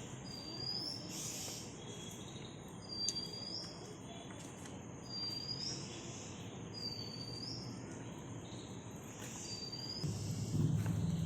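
A bird calling: one short, high whistled note that rises and levels off, repeated about five times at intervals of roughly two seconds, over a steady outdoor hiss. Near the end a low hum sets in.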